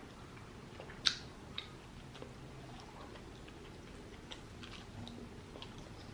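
A person chewing a mouthful of food close to the microphone, with faint wet mouth clicks; a sharper click about a second in is the loudest sound.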